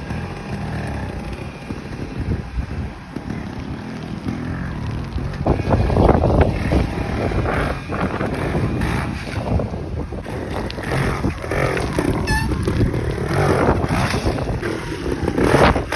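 Vertigo Vertical R 250 two-stroke trials bike engine running and revving unevenly as it is ridden, with wind buffeting the microphone; it gets louder about a third of the way in and surges on and off.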